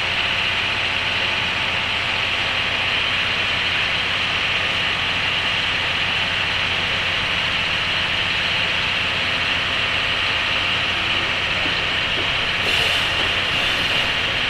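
Onboard running noise of a JR 103-series electric motor car (MoHa 102, with MT55 traction motors) at steady speed: a steady rushing of wheels and running gear over a low hum. A brief louder hiss comes near the end.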